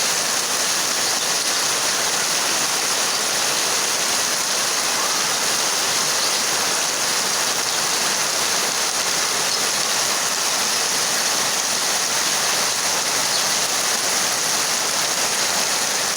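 Heavy rain pouring down, a dense steady hiss without let-up.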